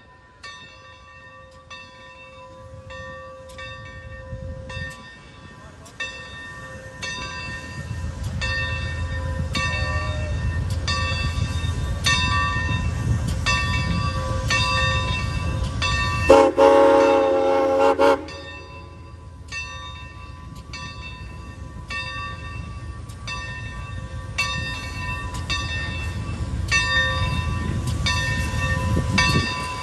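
Steam locomotive's bell ringing steadily, about one and a half strokes a second, over the low rumble of the train, which grows louder as it pulls in. About halfway through, the locomotive's whistle sounds one loud blast of about two seconds.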